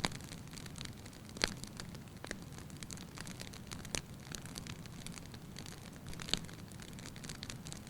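Firewood burning in a fireplace, crackling lightly: scattered sharp pops, the loudest about a second and a half in and just past six seconds, over the low steady rush of the flames.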